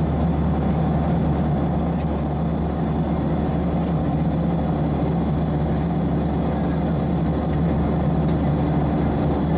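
Steady low cabin drone of a Boeing 737-700 jet airliner, heard from inside the passenger cabin.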